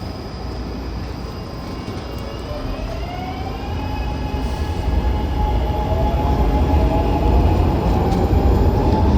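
Elevated train approaching: a deep rumble that grows steadily louder, with a motor whine that rises in pitch and then holds.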